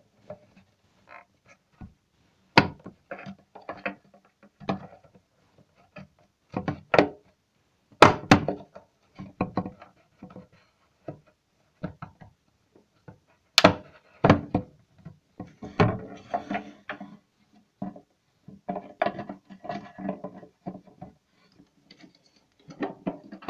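Irregular knocks, clicks and light rattles of hard plastic parts being handled and pushed together as a headlight bulb is worked into a plastic headlight housing.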